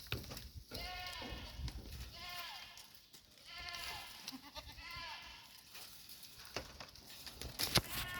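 Goats bleating: several short, wavering calls in a row, with a few sharp clicks near the end.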